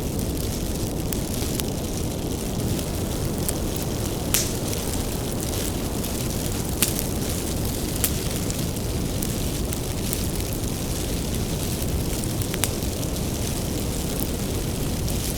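Wood fire burning: a steady low rumble of flames with scattered sharp crackles and pops from the burning firewood, the loudest about four and seven seconds in.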